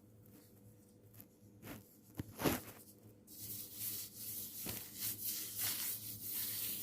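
A few light knocks, then several seconds of steady rustling and scraping from something being handled or rubbed.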